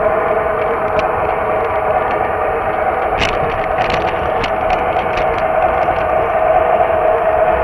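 Lionel O gauge model train running on Super O track, heard from on board: a steady motor whine over wheel rumble, with scattered sharp clicks, several of them bunched in the middle.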